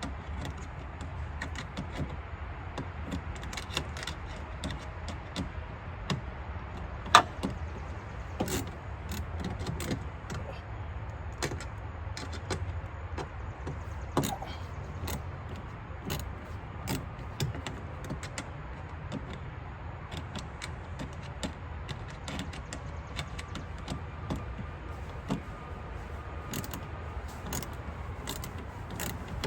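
Scattered small clicks and clinks of hand work on a car's side marker light fittings as they are tightened, with one sharp click about seven seconds in, over a steady low rumble.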